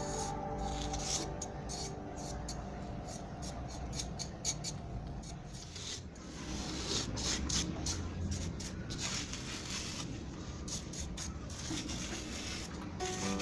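A hand tool scraping and rubbing on cement in irregular, repeated strokes.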